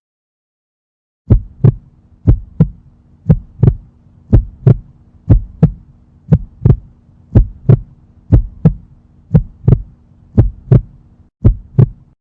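Heartbeat sound effect: pairs of low thumps, about one pair a second, over a steady low hum. It begins about a second in and stops just before the end.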